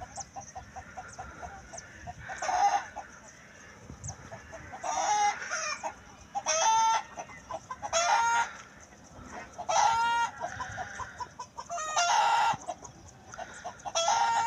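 Chickens calling, one short call of under a second every second or two, repeated about seven times.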